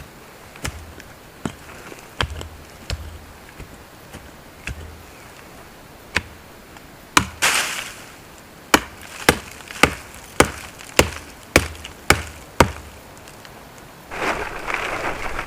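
Firewood being chopped: a few scattered light knocks, then a run of sharp, evenly spaced strikes about two a second. A rough rustling noise follows near the end.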